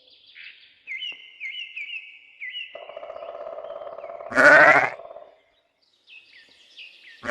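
A sheep bleating once, loud and wavering, about four seconds in, with small birds chirping faintly in the background.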